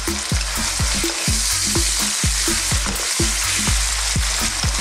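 Beef strips and freshly added sliced onions sizzling in hot oil in a wok over high heat, stirred with a wooden spatula. The sizzle is a steady hiss, with a low rhythmic pulse about four times a second underneath.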